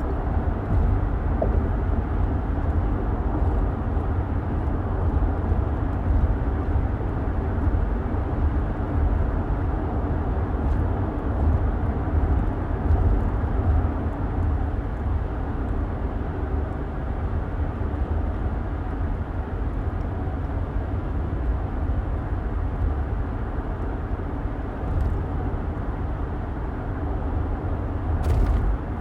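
Steady road and engine noise inside a moving car's cabin: a constant low rumble with tyre hiss and no change in speed.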